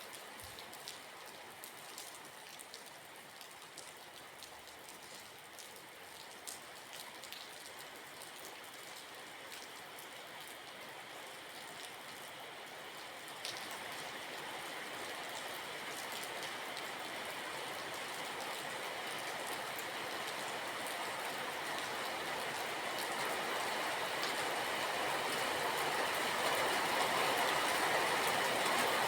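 Steady rain with scattered drops ticking, and a rushing noise under it that grows steadily louder from about halfway through.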